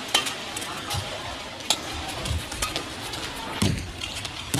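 Badminton rally: a shuttlecock struck back and forth with rackets, about six sharp hits roughly a second apart, over a steady murmur from the arena crowd.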